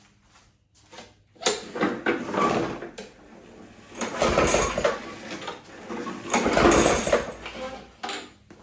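Metal tools and parts clattering and scraping as they are handled, in three loud spells with clicks between.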